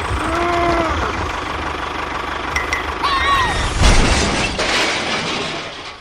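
A small engine running steadily. Two short, arching, voice-like calls come early and about three seconds in, and a brief crash or clatter about four seconds in.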